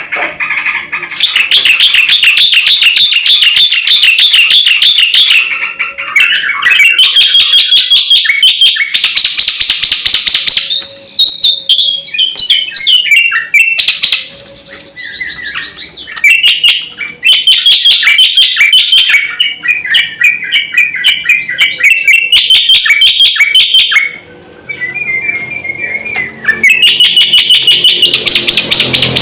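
Black-winged starling (jalak putih) singing loudly, in long bursts of fast repeated high notes and chattering phrases broken by short pauses.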